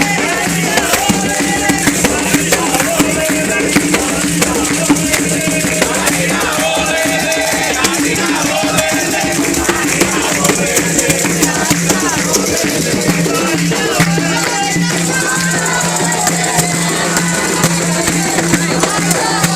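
Candomblé ritual music for Xangô: rattles shaken in a fast, steady rhythm with percussion, under singing voices.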